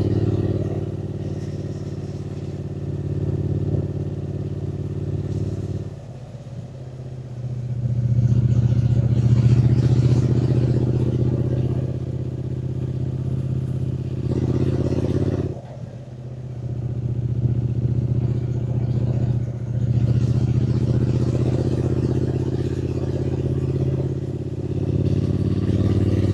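Triumph Speed Twin 900's parallel-twin engine running under way, with wind rush. The engine note dips briefly about six seconds in, again a little past halfway, and once more shortly after, each time picking up again.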